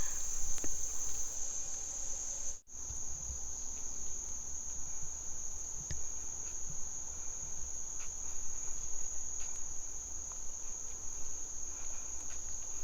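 Forest insects calling: one continuous high-pitched shrill drone that holds steady, cutting out briefly about two and a half seconds in.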